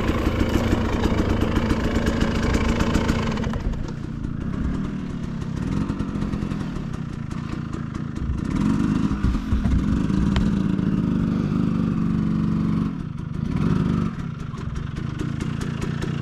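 Dual-sport dirt bike engine running while being ridden on a trail, its pitch rising and falling with the throttle.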